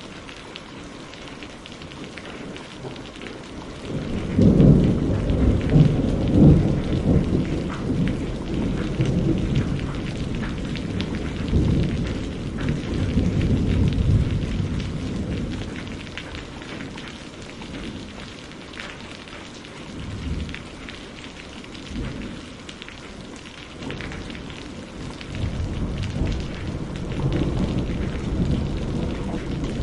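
Steady rain falling on a greenhouse roof, with a long roll of thunder starting about four seconds in and rumbling for around ten seconds, then a second, softer roll near the end.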